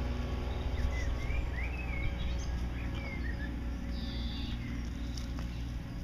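A few faint, high chirps of small birds over a steady low rumble of outdoor background noise.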